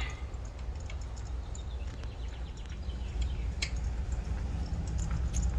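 Faint, scattered clicks and ticks of a spark plug socket and extension being turned by hand to thread a new spark plug into the cylinder head, over a steady low rumble.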